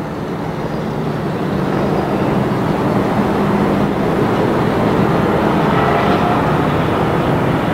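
Race trucks' engines running steadily under caution, growing slowly louder.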